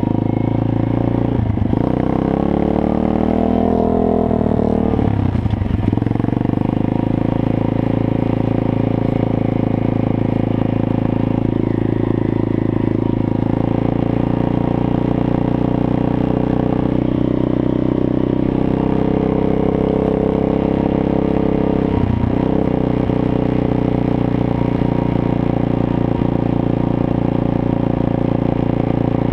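Small petrol engine running while being driven. Its pitch swings up and down a couple of times in the first six seconds, with brief drops in revs, then holds steady with another short dip about three quarters of the way through.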